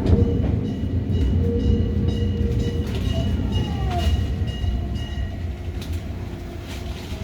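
Running noise inside a Hokuriku Railroad 03-series trailer car: a steady rumble of wheels on the track with faint whining tones over it, getting quieter toward the end.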